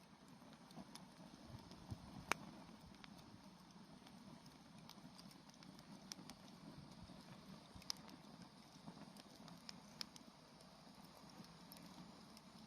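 Wood campfire burning quietly, with scattered sharp crackles and pops at irregular moments over a low soft rumble; the loudest pop comes about two seconds in.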